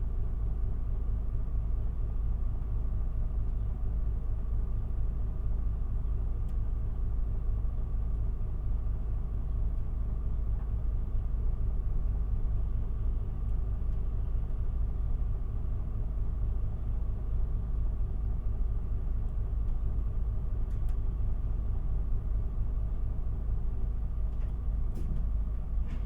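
Isuzu Erga city bus heard from inside the cabin, its diesel engine running at a steady, unchanging pitch over a low rumble.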